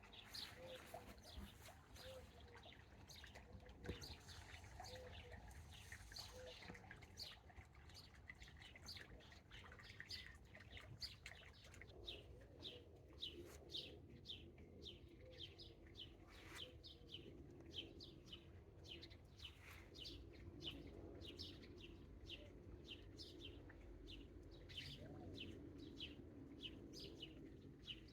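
Garden birds singing faintly: a fast run of short, high chirps, about three a second, that grows denser from about the middle on. At the start there is also a lower note repeated about once a second.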